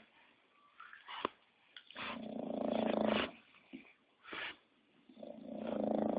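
English bulldog snoring: long rattling snores of over a second each, about every three seconds, one about two seconds in and one near the end, with a brief breath sound between them.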